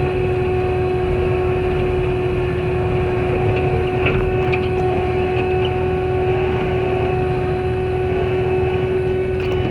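Skid steer running a Blue Diamond severe duty brush cutter: a steady engine and cutter drone with a constant whine over a low rumble, and a few brief cracks about four seconds in and near the end.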